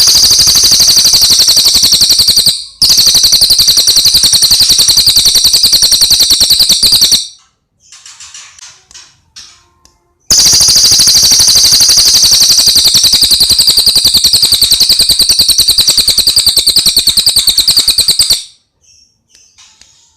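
Brown cililin songbird singing long, loud, very rapid high-pitched trills: one runs through the first two and a half seconds, another from about three to seven seconds in, then after a pause of soft twittering a third long trill from about ten to eighteen seconds in.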